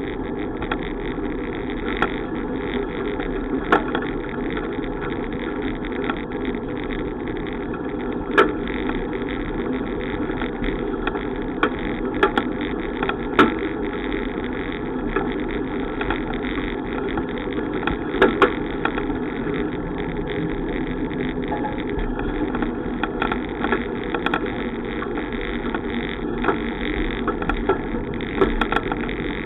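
Noise of a bicycle on the move: a steady rush of wind on the microphone and tyres on the road, broken by scattered sharp clicks and knocks.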